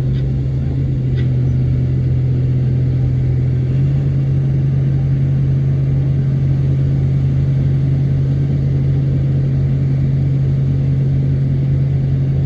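Heavy machine's diesel engine running steadily with a strong low hum, its pitch stepping up slightly about four seconds in.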